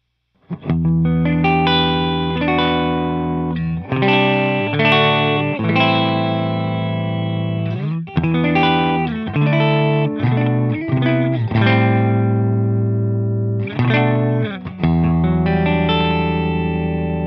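Electric guitar played through a Walrus Audio Deep Six V3 compressor pedal into a 1974 Marshall JMP 100 W Super Lead valve head: chords and single notes ring out evenly with long sustain and a slightly driven edge. It starts about half a second in.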